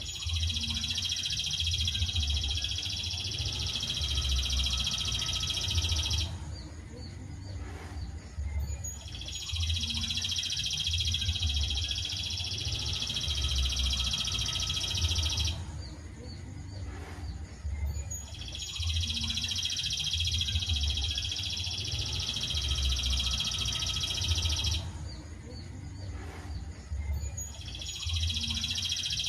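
Songbird song used as a masteran recording: bursts of dense, rapid chirping about six seconds long, each followed by a pause of two to three seconds and then repeated, a little over three times.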